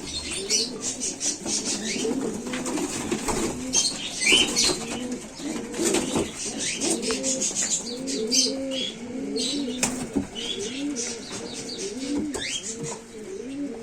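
Many racing pigeons cooing together in a loft, their low rolling coos overlapping without a break, with wing flutters and short higher chirps mixed in.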